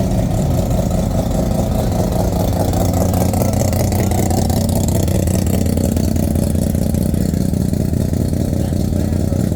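A vehicle engine idling steadily, close and loud, with a fast even exhaust pulse.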